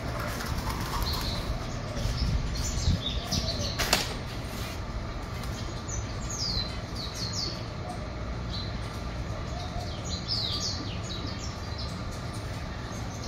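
Cage birds fluttering their wings, with clusters of quick, high chirps that fall in pitch from about three seconds in. A steady low hum runs underneath.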